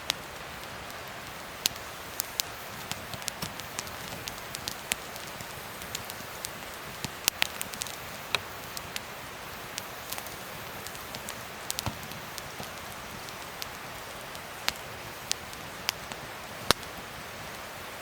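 Wood fire crackling: a steady hiss of burning with irregular sharp pops and snaps from the burning wood, one louder pop near the end.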